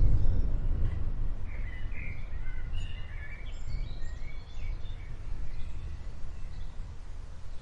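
Outdoor storm ambience: a constant low rumble, loudest at the start, with several songbirds chirping in short calls over the first half that thin out toward the end.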